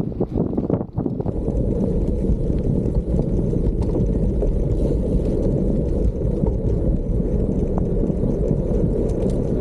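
Steady wind rush buffeting the microphone of a camera on a moving gravel bike, over the low rumble of tyres rolling on an unpaved trail. The noise briefly dips just before a second in, then holds steady.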